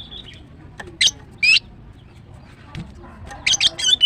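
Female greater green leafbird giving sharp, high-pitched rising call notes: two single notes about half a second apart, then a quick run of several notes near the end.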